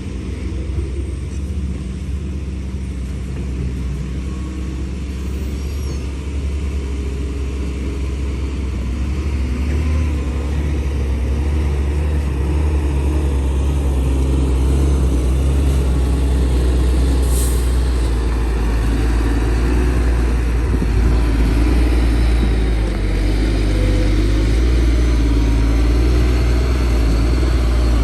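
Heavy diesel engine of earthmoving machinery running steadily, growing louder over the first half and then holding, with a short hiss about seventeen seconds in.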